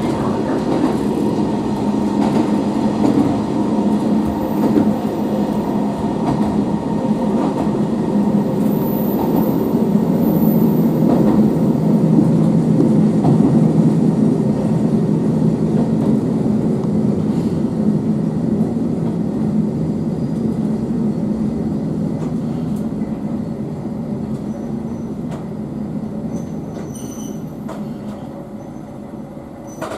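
Hisatsu Orange Railway diesel railcar running, heard from on board: steady engine hum and the rumble of wheels on the rails, growing quieter over the last several seconds as the train slows into a station.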